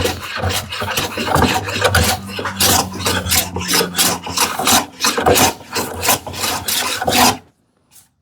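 Hand plane taking repeated shavings off the side of a wooden drawer box, a quick run of short rasping strokes that stops about seven and a half seconds in. The strokes trim the drawer a little at a time to fit a tight opening.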